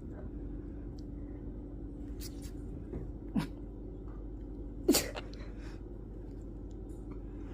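Quaker parrot making a few short, sharp noises, the loudest about five seconds in, over a low steady hum.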